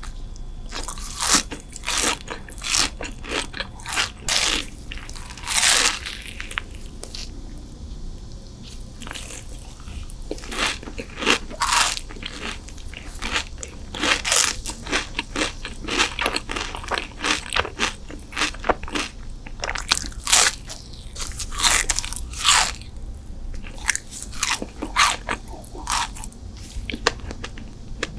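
Close-miked eating sounds: a person biting into and chewing crunchy food, with many sharp, irregular crunches.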